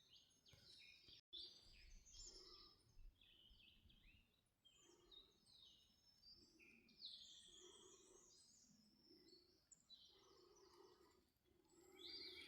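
Faint songbirds chirping and singing in woodland, many short calls and quick pitch glides overlapping throughout.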